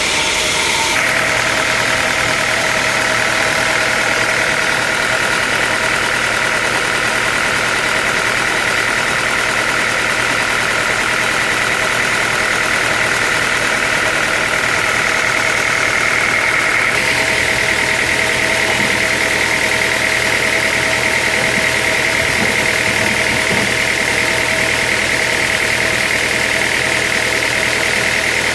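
Sawmill machinery running steadily: an engine-like drone with a steady high whine over it, shifting abruptly about a second in and again a little past halfway.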